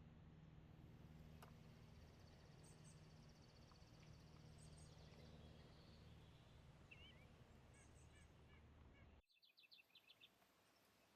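Near silence: faint outdoor background with a few soft bird chirps and calls. About nine seconds in the background drops abruptly and a quick run of high chirps follows.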